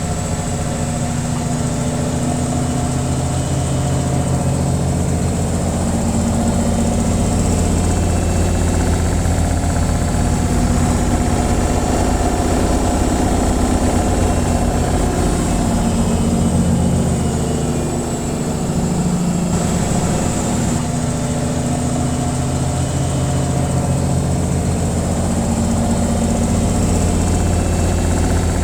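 Washing machine on its spin cycle: a steady low hum and drone from the spinning drum and motor, with a thin high whine above it.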